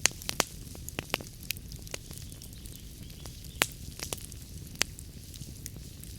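Wood fire crackling in a fireplace: irregular sharp pops and snaps over a soft steady rumble of the flames, with a few louder pops, one just after the start and others about three and a half and five seconds in.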